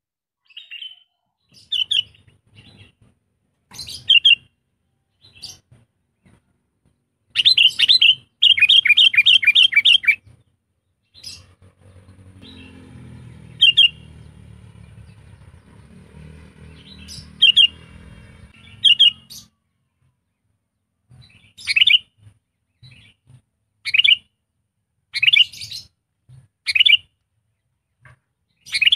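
Sooty-headed bulbul calling in short, loud chirps, with a quick run of repeated notes about eight seconds in. A faint low rumble runs through the middle.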